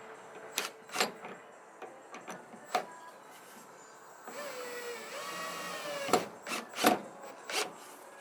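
Wooden knocks and clatter as pieces of wood are handled, with a power drill running for about two seconds in the middle, its pitch dipping and then holding. Several more sharp knocks follow near the end.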